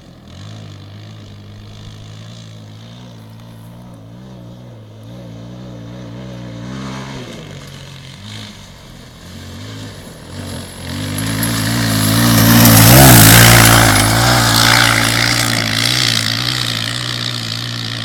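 Motocross dirt bike engine revving up and down as it rides the dirt course, growing louder and passing close about two-thirds of the way through, then easing off.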